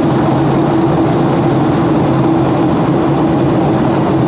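Airplane's steady engine drone, with a constant low hum and a thin high whine that do not change.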